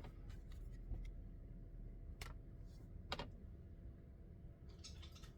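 A few faint, scattered clicks and taps over a low steady hum.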